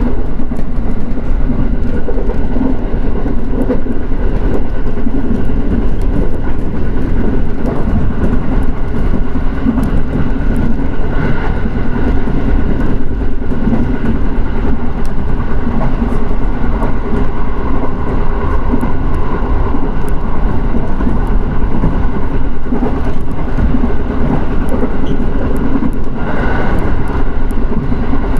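JR East electric train on the Shinetsu Main Line running between stations: a steady, loud rumble of wheels on rail with a faint motor whine and scattered light clicks.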